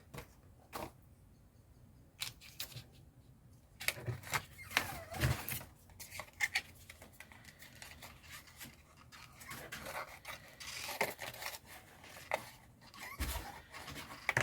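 Scissors cutting through paper in short, irregular snips with pauses between them.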